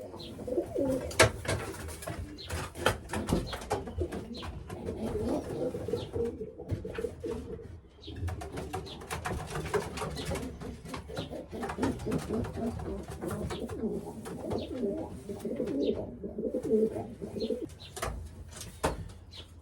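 Racing pigeons cooing in the loft, a low warbling that goes on most of the time, with frequent short knocks and rustles from the birds and their handling.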